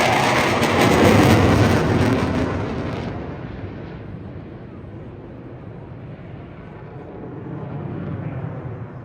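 Jet noise from an RAF Eurofighter Typhoon's twin engines in a close pass: loud and crackling for about three seconds, then fading to a distant rumble that swells slightly near the end.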